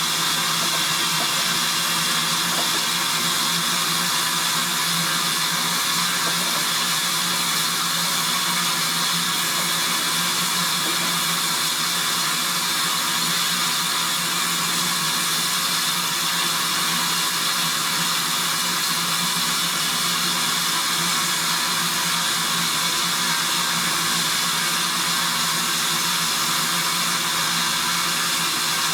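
Steady, loud hiss from a train on a heritage railway, with a low hum beneath it.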